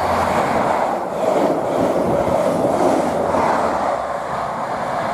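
Network Rail's New Measurement Train, an HST set with Class 43 diesel power cars, passing: a steady, loud noise of wheels on rail and engines throughout.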